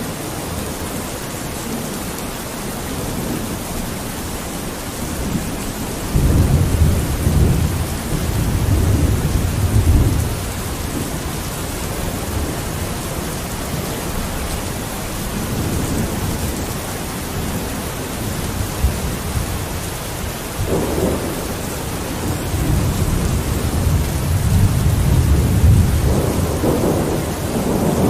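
Steady rain falling on a window, with thunder rumbling low twice: once about six seconds in for a few seconds, and again building near the end.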